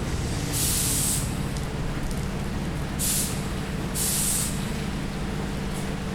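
Railway air brakes releasing compressed air in short hisses, three within a few seconds, over the steady low hum of the standing train and heavy rain.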